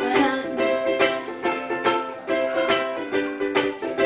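Acoustic string instrument strummed in a steady rhythm, playing an instrumental passage of a folk song with no singing.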